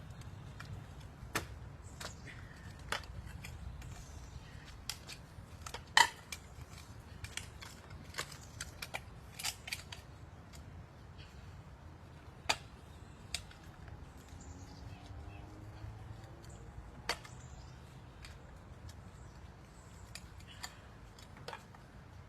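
Pump inflating a basketball to about 6 psi: scattered sharp clicks and knocks at irregular intervals, the loudest about six seconds in, over a steady low hum.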